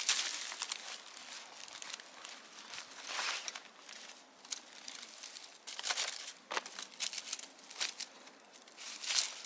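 Irregular crinkling and rustling in several bursts, with scattered small clicks.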